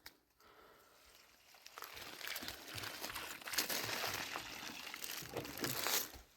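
Crinkling, crunching rustle made up of many small clicks. It starts about two seconds in and stops suddenly near the end.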